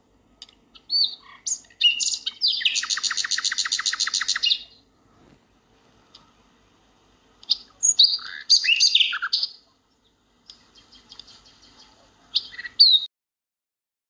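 Songbird calls: scattered sharp chirps, then a rapid trill of about ten notes a second lasting some two seconds. More chirping calls follow about halfway through, and a softer fast rattle with a couple of sharp notes near the end.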